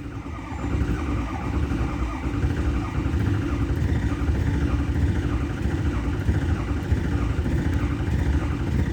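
Ford 6.0 Power Stroke V8 turbo-diesel being cranked over by the starter on a cold, hard start, a steady cranking that grows a little louder about a second in.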